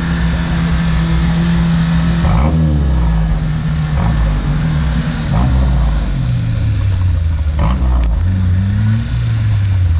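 Off-road vehicle's engine running hard at high revs, holding steady at first, then dropping and rising in pitch several times as the throttle is worked.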